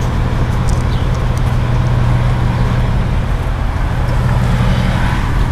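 Diesel trucks running at a truck stop, a steady low drone over continuous traffic noise.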